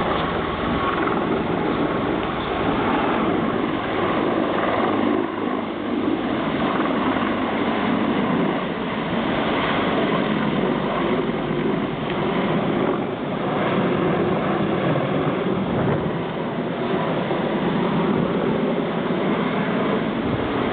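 Helicopter running, a steady rushing drone that holds without a break.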